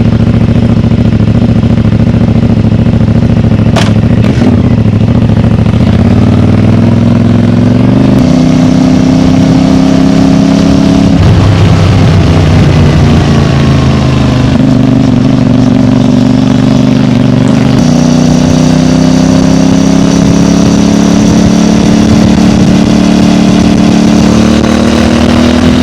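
CFMOTO 450MT's parallel-twin engine running through its stock exhaust. The pitch holds steady at first, then steps up and down several times as engine speed changes, and climbs slowly near the end. A short sharp click comes about four seconds in.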